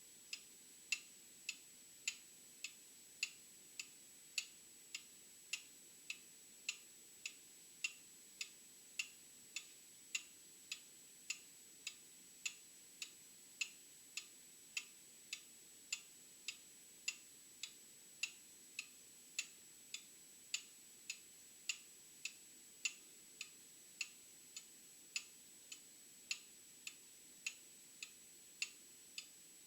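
Old mechanical clock ticking steadily, a little under two ticks a second, the ticks alternating in strength as a tick-tock.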